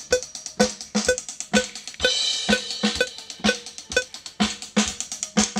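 Drum kit played in a recording take: a steady beat of strikes, about two a second, with a crash cymbal ringing out about two seconds in and again at the end.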